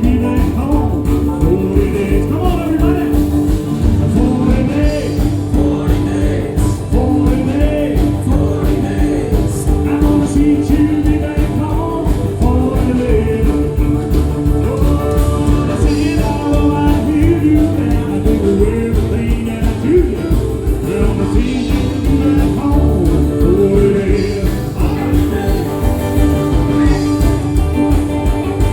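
Live 1950s-style rock and roll band playing over a steady, driving beat, with guitar carrying a bending melody line.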